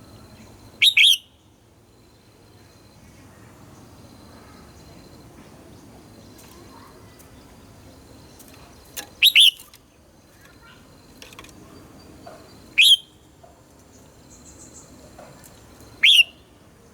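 Red-whiskered bulbul giving four short, loud calls several seconds apart, each sweeping sharply upward in pitch, with a few faint chirps in between.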